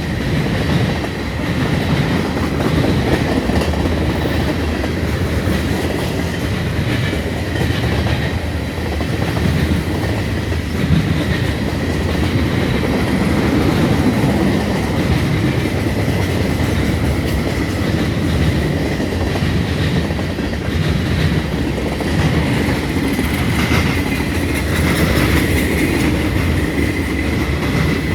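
Freight train rolling past at low speed, its wheels clattering over the rail joints in a continuous clickety-clack, with a faint steady high squeal from the wheels.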